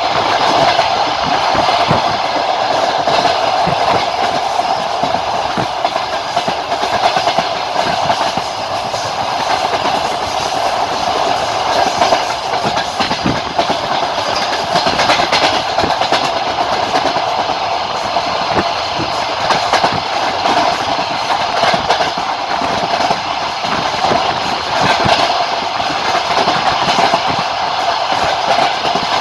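Passenger train running at speed, heard aboard: the wheels click over rail joints above a steady rolling noise of wheels on rails.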